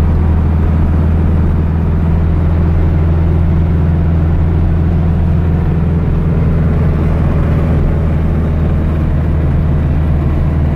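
The 2276cc air-cooled VW flat-four engine of a 1970 Baja Bug droning steadily at an even pitch as the car cruises, heard from inside the cabin.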